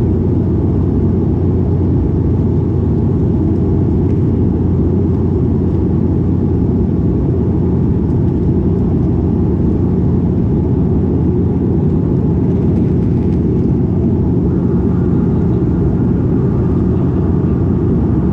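Cabin noise of a De Havilland Canada Dash 8-400 turboprop, heard inside the cabin by the window. The propellers and engines make a steady, loud drone with a low humming tone under a rumble of airflow.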